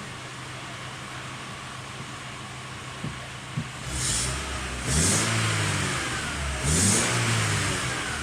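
Volkswagen Beetle engine idling steadily, then revved three times from about four seconds in, the pitch climbing with each blip of the throttle and sinking back toward idle.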